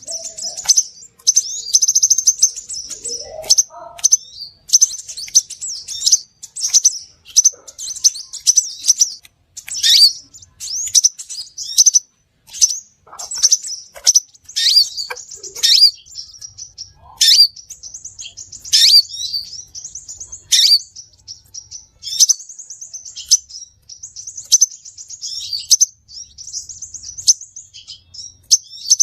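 Crimson sunbird singing and calling: a dense run of sharp, high-pitched chirps and quick downward-sweeping notes, repeated with only brief gaps. A few lower sliding notes come in during the first few seconds.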